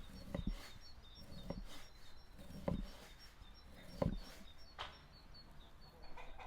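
Occasional light knocks and clicks over a faint, evenly repeated high chirping.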